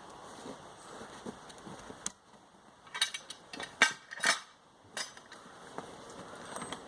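A few sharp, ringing metal-on-metal blows, bunched about three to four seconds in: felling wedges being hammered into the cut of a tree being felled.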